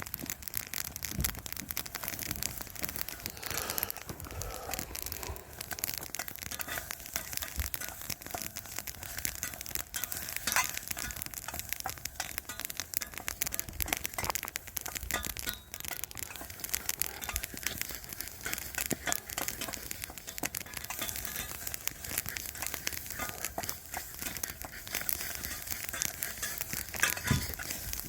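Food cooking in a cast iron pot over campfire coals: a continuous, dense crackle of fine pops and sizzling, with a few sharper clicks.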